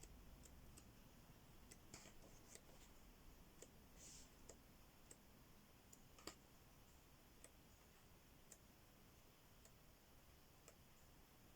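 Near silence, with faint scattered clicks and a brief soft rustle from paperback colouring-book pages being handled and turned.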